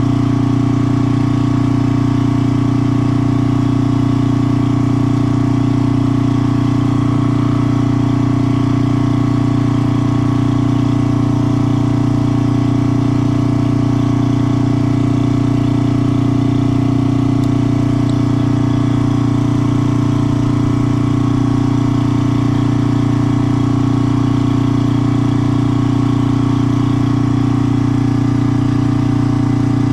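A small engine running steadily at idle, a constant even hum with no change in speed.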